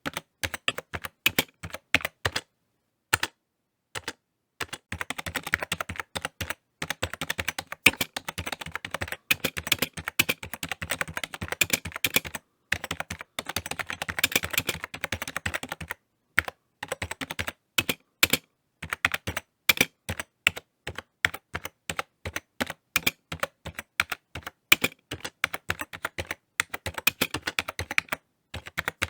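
Typing on a computer keyboard: quick runs of key clicks, broken by short pauses of a second or so.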